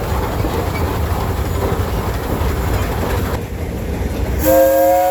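Steady low rumble of engines running, then about four and a half seconds in a steam engine's whistle blows loudly, several notes sounding together.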